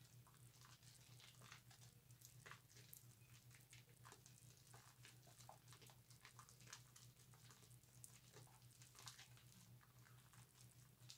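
Faint wet squishing and crackling of bar soap being lathered, many small irregular clicks, over a low steady hum.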